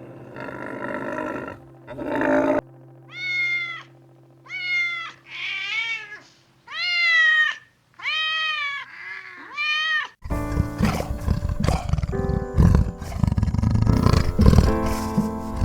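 A domestic cat meowing about six times, each meow rising then falling in pitch. A rougher, noisier sound comes before the meows, and from about ten seconds in a louder dense mix with music takes over.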